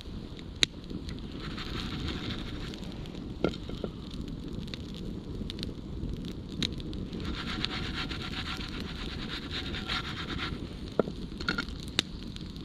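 Open wood fire crackling, with scattered sharp pops from the burning wood over a steady low rumble; the loudest pop comes about half a second in.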